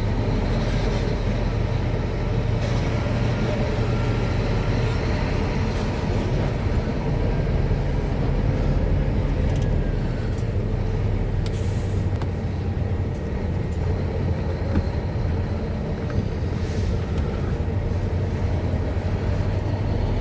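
Heavy truck running at steady speed, heard from inside the cab: a constant low engine drone over road and tyre noise, with a few faint clicks about halfway through.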